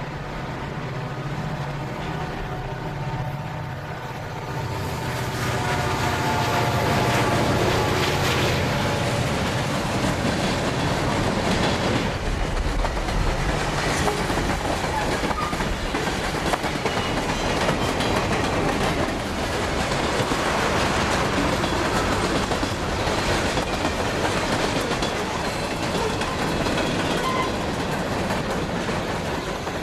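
A diesel freight locomotive's engine running steadily as it passes. About five seconds in, the sound gets louder and turns into the continuous rolling noise and clickety-clack of freight cars going by.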